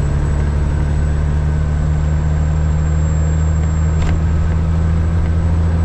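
Caterpillar 3406E inline-six diesel of a Freightliner FLD120 truck running steadily with a low rumble. There is a single light click about four seconds in.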